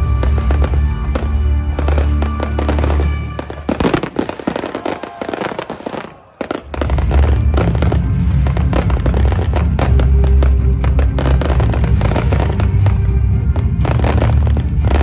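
Fireworks banging and crackling over loud music with a heavy bass. A few seconds in, the music drops out for about three seconds, leaving only the dense crackle, then comes back.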